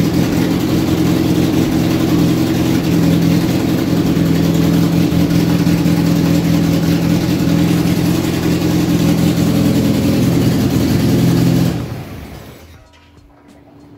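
Fiat 1.6 DOHC twin-cam inline-four engine running steadily on a converted electronic-ignition distributor, with the ignition timing only roughly set. Near the end it is switched off and runs down to a stop within about a second.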